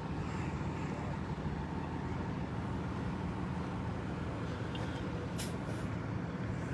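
Steady low rumble of an idling large vehicle engine, with a brief click about five and a half seconds in.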